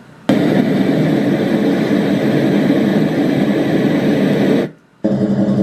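RENPHO white noise machine playing a loud, steady noise track through its speaker. The track switches on just after the start, cuts off suddenly near the end, and a different, evenly pulsing track starts after a brief pause as the next setting is selected.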